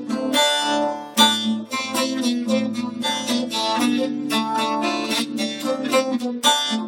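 Plucked string instruments playing an instrumental passage, a fast run of picked and strummed notes.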